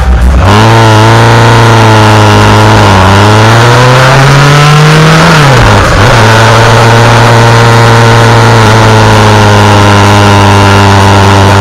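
Yamaha XJR1300's inline-four engine running under way at steady revs. The revs climb for about two seconds near the middle, drop sharply about halfway, then settle steady again.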